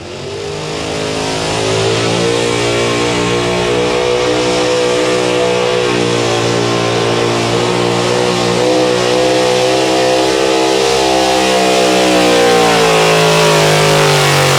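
Pro street four-wheel-drive pulling truck's engine at high revs under full load during a pull, building up over the first couple of seconds and holding steady. Its note drops near the end as the truck slows.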